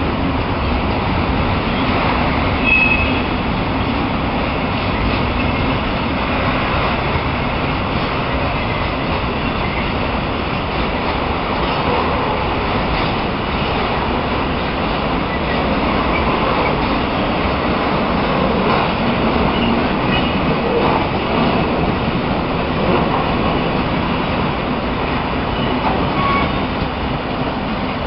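Freight wagons rolling slowly through the yard, with a few short, high wheel squeals on the rails, over the steady drone of a DB class 294 diesel-hydraulic shunting locomotive working hard to move them.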